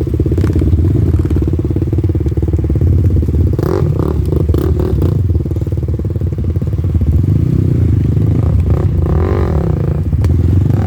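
Off-road motorcycle engine running steadily while riding a forest trail, with a cluster of clattering knocks about four seconds in and the engine pitch briefly rising and falling near the end.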